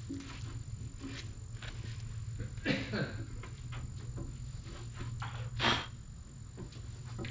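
Scattered short rubbing and scraping sounds of a part being cleaned by hand, with a short loud hiss-like burst about three quarters through, over a steady low hum and a faint steady high-pitched tone.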